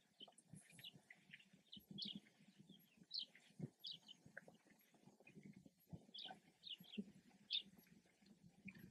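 Faint birds chirping: short, irregular chirps scattered throughout, the loudest about three and seven and a half seconds in, over soft low knocks and shuffles.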